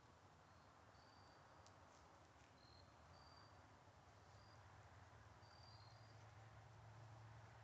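Near silence: faint background hiss and low hum, with scattered brief, faint high chirps about once a second.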